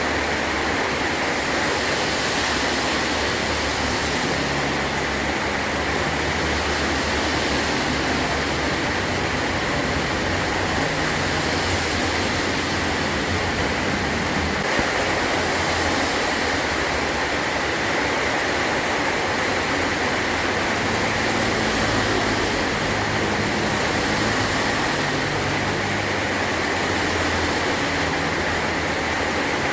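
Heavy rain falling on a metal roof: a steady, dense hiss with no let-up.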